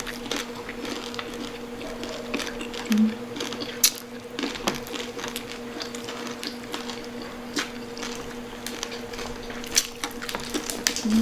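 Chewing of crispy pata (crisp-fried pork knuckle skin): scattered short sharp crunches over a steady low hum.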